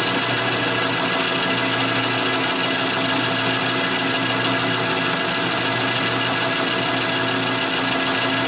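Metal lathe running steadily on power feed, its tool taking a light cut along a bar.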